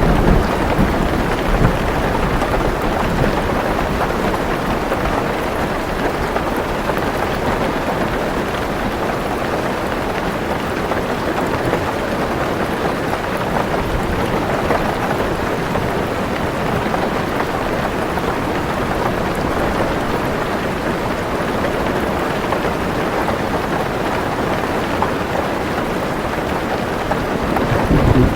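Heavy rain falling steadily on a car roof and windows, heard from inside the car, with low thunder rumbling at the start and again near the end.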